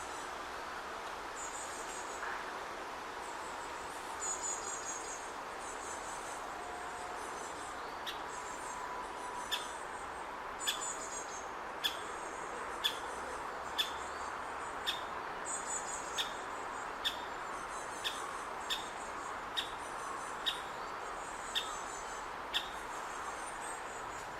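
Great spotted woodpecker chick calling from its nest hole: short, sharp single notes repeated about once a second, starting about a third of the way in. Behind them are brief high buzzy trills and a steady background hiss.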